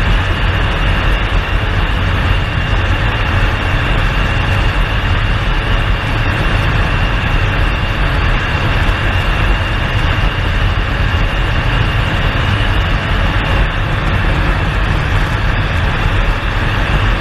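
Air Tractor AT-802 agricultural plane's Pratt & Whitney PT6A turboprop engine running steadily: a loud, constant rumble with a steady high whine over it.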